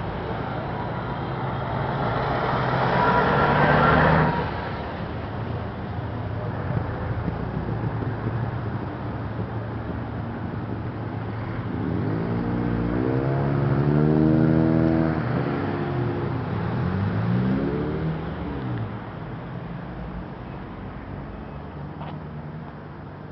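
Road traffic: cars passing, with a loud pass about three to four seconds in and an engine note that rises and falls in pitch around the middle before the traffic fades.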